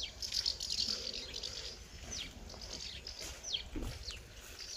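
Birds chirping: many short, high calls with a few quick falling notes, fairly faint.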